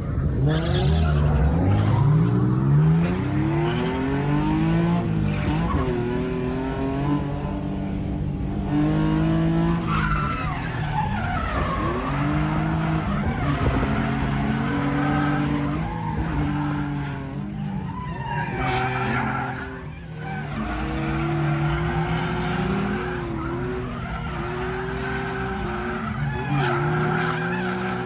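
Drift car engine revving up and down again and again as it slides, with tyre squeal and skidding throughout.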